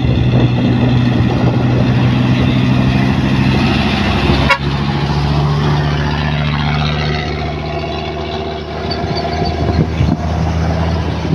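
Heavy truck engine running steadily. A sharp click about halfway through, after which the engine note changes.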